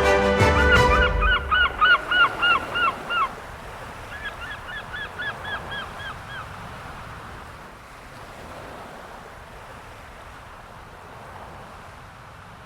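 Gull calling in a quick series of short down-slurred notes, then a fainter second series, over a soft steady rush. The soundtrack music fades out about a second in.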